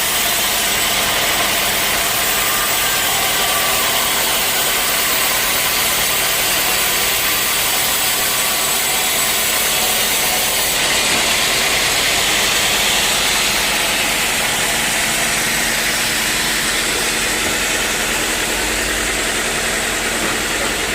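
Sawmill engine running steadily, its sound changing slightly about eleven seconds in.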